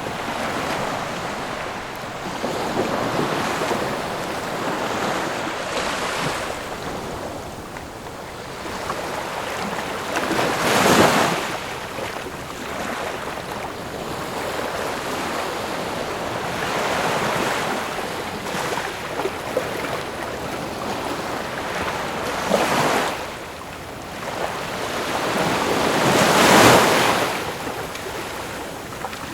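Ocean waves breaking and washing ashore in a continuous surf, with louder breakers about 11 seconds in, briefly near 23 seconds, and loudest near 27 seconds.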